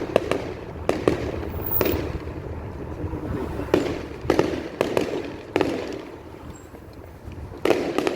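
Fireworks exploding: a string of sharp bangs at irregular intervals, each trailing off in a rumbling echo, over a continuous low rumble of further bursts. It dies down briefly before one more loud bang near the end.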